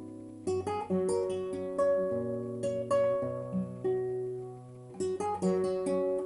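Solo acoustic guitar playing a slow ballad: single picked notes over held bass notes, each note left to ring, with a brief quieter pause a little past the middle.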